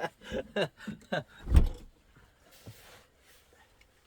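A few short knocks and scrapes, then a single heavy, deep thump about a second and a half in, followed by faint ticks.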